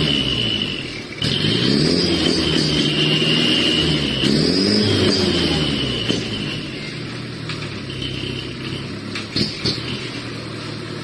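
A 110 PS non-turbo truck engine running through a three-chamber 'cung' exhaust muffler, revved up and let back down twice, with a deep bass exhaust note and a high whistling tone over it. It then settles to a steadier, quieter run for the last few seconds.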